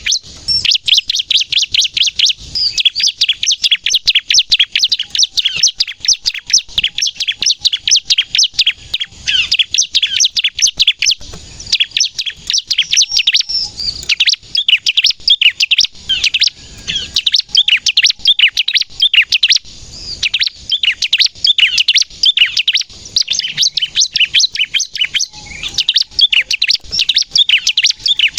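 Bar-winged prinia (ciblek) singing in a rapid, sharp-noted 'nembak' style: a fast stream of high chirps, broken by a few brief pauses.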